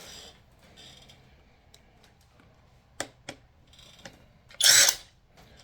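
Metal hand tools and bolts being handled on a workbench: a few light clicks, then one short, loud clatter about four and a half seconds in.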